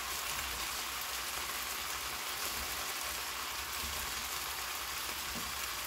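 Vegetables and sundae sizzling in oil in a frying pan, a steady, even hiss.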